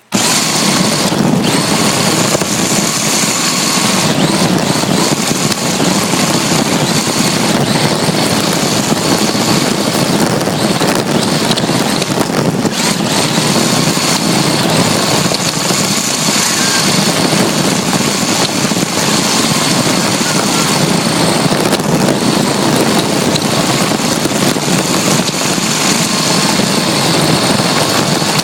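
RC drift car running, picked up by a phone cable-tied to its bare chassis: a loud, steady mix of drivetrain noise, wheel and ground rumble and a thin high whine, starting abruptly.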